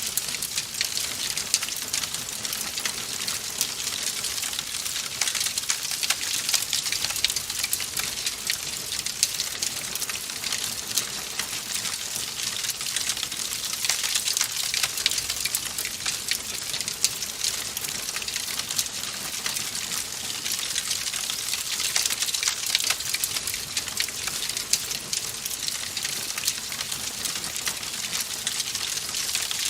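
Wood fire in a fireplace crackling steadily: a dense, even stream of small sharp pops and snaps over a soft hiss.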